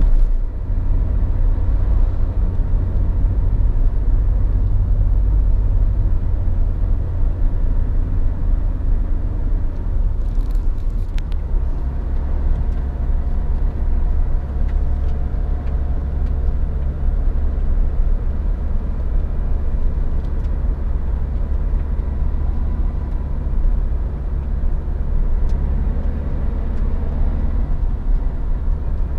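Suzuki Jimny 1.5 VVT being driven: a steady low rumble of engine and drivetrain, with a few faint clicks about ten seconds in.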